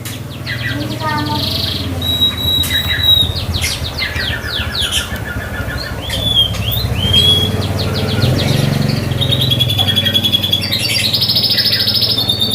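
Domestic canary singing a long, unbroken song of rapid trills, chirps and clear whistled notes, with a steady low hum underneath.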